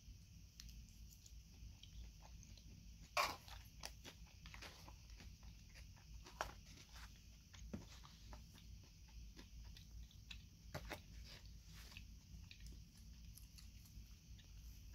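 A person chewing a mouthful of salad, with soft irregular crunches of raw vegetables. One loud crunching bite comes about three seconds in, and smaller ones follow.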